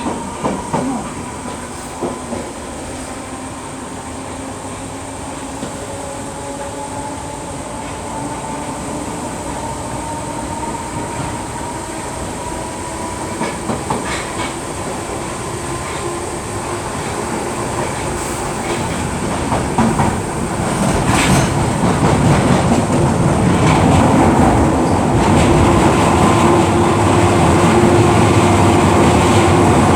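Merseyrail Class 508 electric multiple unit running, with a humming motor whine and scattered clicks from the wheels over rail joints. It grows louder about two-thirds of the way through as the train picks up speed.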